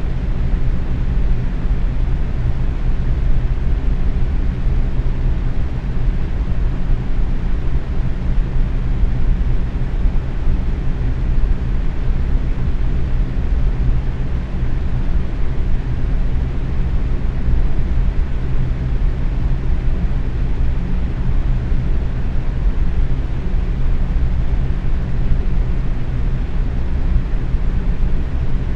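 Box fan running steadily at medium speed, a constant whooshing rush of air with a low hum and no change in pitch or level.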